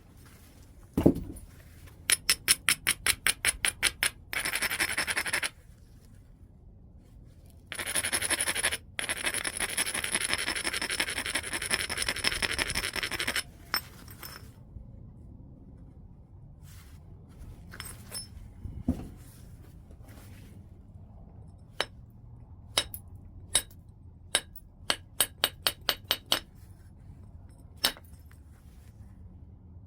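Knapping a large piece of white chert, stone against stone: a single thump about a second in, then quick back-and-forth scraping along the chert's edge in two long bouts, the kind of rubbing used to abrade a striking platform. Later comes another thump and a string of sharp, separate clicks.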